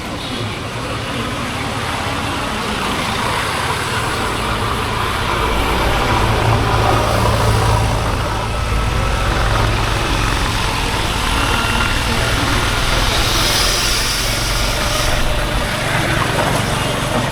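Honda H'Ness CB350's single-cylinder engine and exhaust running steadily, the low exhaust note growing louder about five seconds in and then holding.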